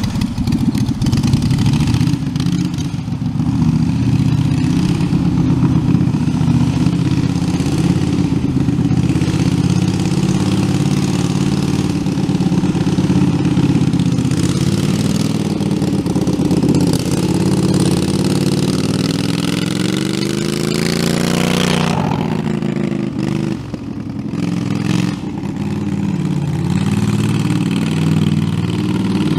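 Engine of a homemade tractor running hard while wheelies are attempted. Its revs climb steadily for several seconds from about halfway in, then fall away suddenly about three-quarters of the way through, and the engine runs on at lower revs.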